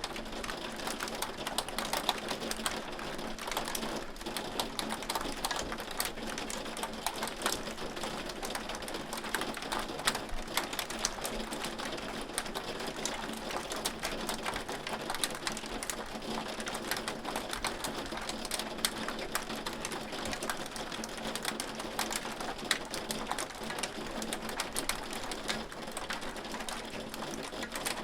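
Hail falling steadily: a dense, irregular patter of hailstones striking a hard surface, sharp clicks over a constant rain-like hiss.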